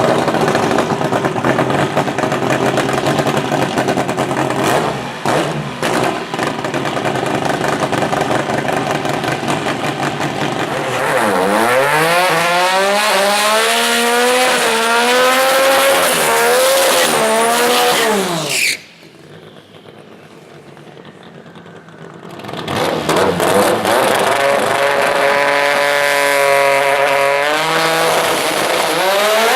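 Twin-turbo VQ35 V6 drag car engine running loud, with a dense noisy stretch and then revs whose pitch rises and wavers up and down. Near the middle it drops off abruptly for a few seconds before coming back and revving again.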